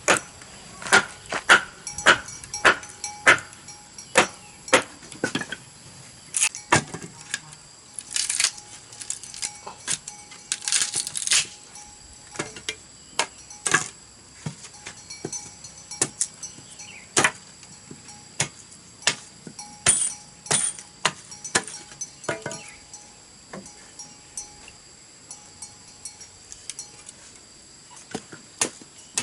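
Repeated sharp knocks of a hand tool striking bamboo. They come about two a second at first, then sparser and uneven, with a couple of louder scraping strokes.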